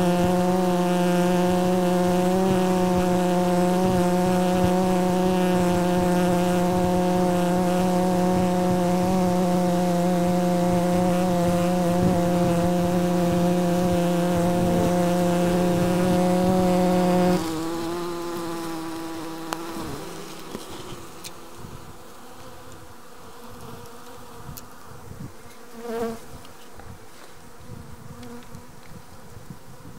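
Honeybee colony buzzing inside a hive: a loud, steady hum that drops suddenly about 17 seconds in to a quieter, rougher buzzing.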